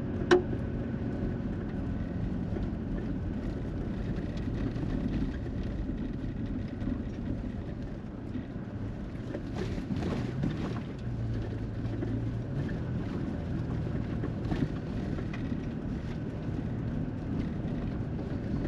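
Cab interior noise of a 2021 Toyota Tacoma being driven: a steady drone of engine and tyre noise with a few light knocks from the road.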